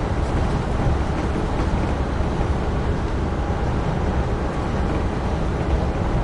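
Amtrak Northeast Regional train running at speed, heard from aboard: a steady rumble of wheels on rail with air noise.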